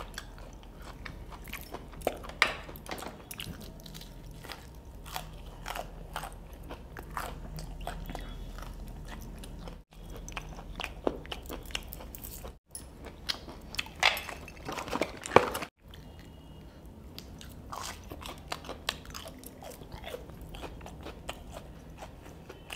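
A person biting and chewing crispy fried chicken: crackly crunches of the fried coating mixed with chewing. There are louder crunches about two seconds in and again around the middle.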